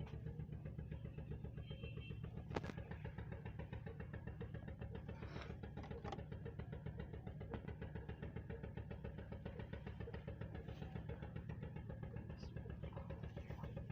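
An engine idling steadily with a fast, even throb, and one sharp click about two and a half seconds in.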